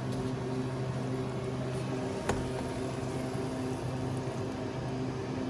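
Steady mechanical hum of a running kitchen appliance or fan, with a single light click a little over two seconds in.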